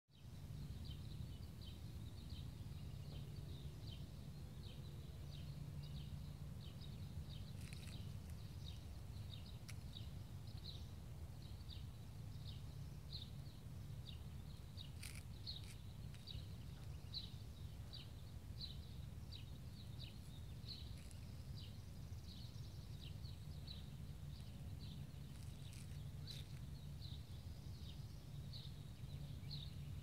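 A small bird chirping over and over, short high chirps about twice a second, over a steady low outdoor rumble, with a few faint clicks.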